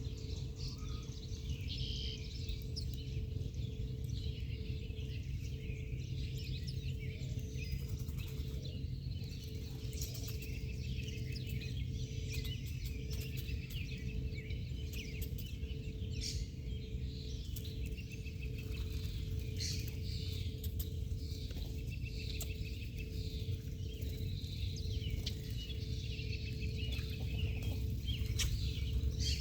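Small birds chirping and twittering, many short overlapping calls throughout, over a steady low rumble and a faint steady hum.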